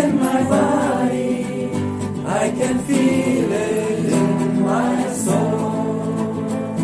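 Group singing of a chant, several voices with guitar accompaniment.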